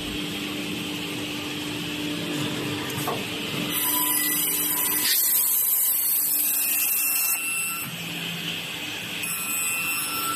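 Edge banding machine running: steady motor noise, with a louder high hiss from about four to seven and a half seconds in.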